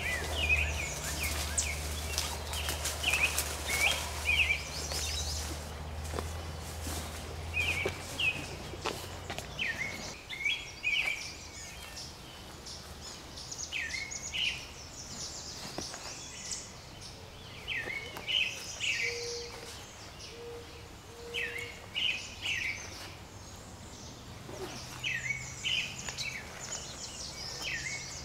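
Wild birds calling in short chirping phrases, repeating every second or two. A low steady hum underneath dies away about eight seconds in.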